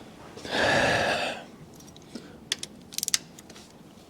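A hand ratchet tightening intake manifold bolts a further 10 degrees, giving several sharp clicks about two and a half to three seconds in. A loud hiss of about a second comes about half a second in.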